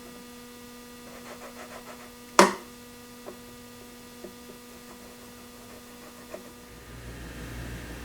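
Steady hum with a few light taps and clicks of handling, and one sharp knock about two and a half seconds in; a low rumble comes in near the end.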